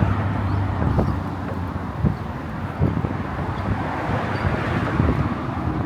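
Steady hum of road traffic on the bridge's car lanes, with wind buffeting the microphone and a few soft thumps.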